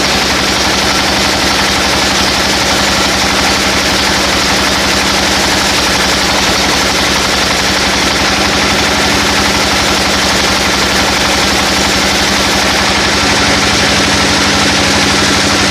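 Sawmill machinery running: an engine drives it with a steady, rapid, even pulse and a hum, under a loud broad hiss.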